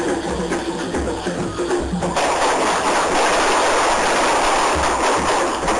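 Percussion-driven music. About two seconds in, a loud, dense hiss and crackle of firework fountains spraying sparks takes over.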